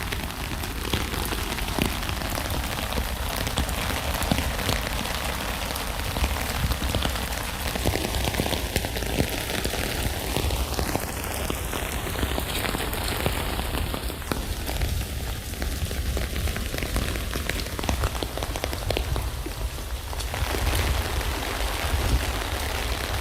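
Steady rain falling on a tent, a dense hiss of many individual drop hits over a deep low rumble.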